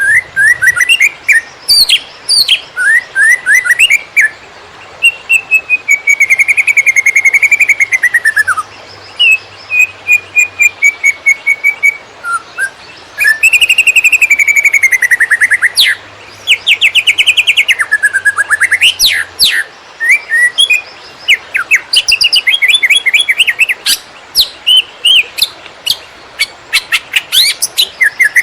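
Green leafbird (cucak ijo) singing a loud, fast, varied song of whistled notes, slurred glides and rapid trills, broken by short pauses: the erratic 'konslet' style that keepers play to train other birds.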